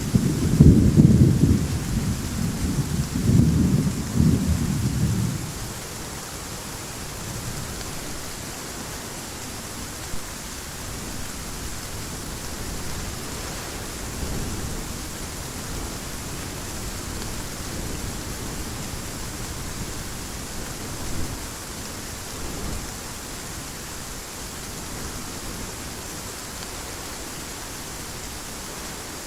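Thunder rumbling loudly over heavy rain, dying away about five seconds in to leave a steady hiss of rain.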